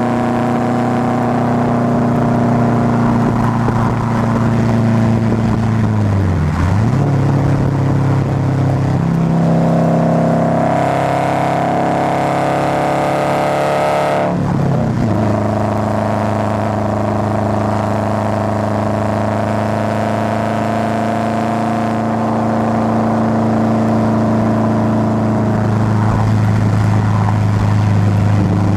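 Subaru Forester's flat-four engine and exhaust running while driving. The steady engine note dips sharply and climbs again about six seconds in, runs higher for a few seconds, then drops back about fourteen seconds in and holds steady.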